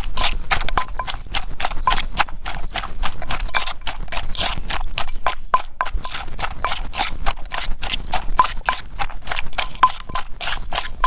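Pestle pounding som tam (green papaya salad) in a mortar, a steady run of sharp knocks at about four to five a second.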